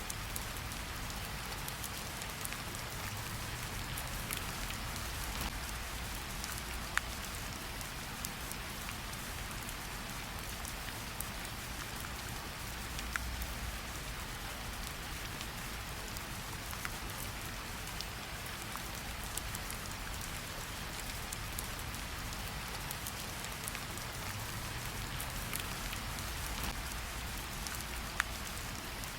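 Steady gentle rain pattering on tree leaves, with scattered louder single drips, a few of them sharp and clear.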